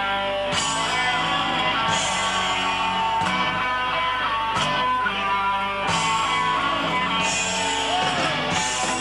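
Punk rock band playing an instrumental passage led by guitar, with a short high hiss every second or so, most likely cymbals.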